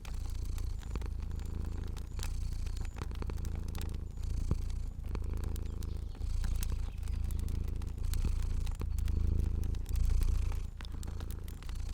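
Cat purring steadily, the low purr swelling and easing in waves about a second long with its breathing, with small pops and crackles of a fire scattered over it.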